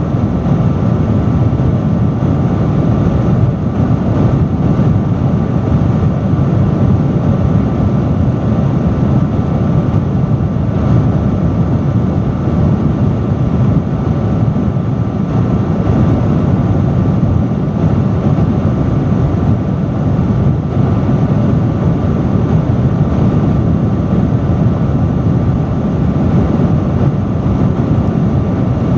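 Industrial fan running steadily at high speed, a constant loud rush of air strongest in the low range, with a faint steady motor hum.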